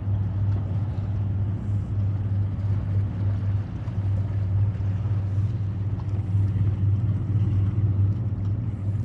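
Steady low hum of an engine running at an even speed, unchanging throughout.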